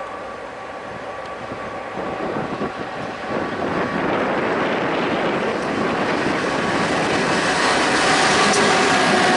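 BNSF freight train with diesel locomotives approaching on the main line, its rumble growing steadily louder, with steady tones coming in near the end.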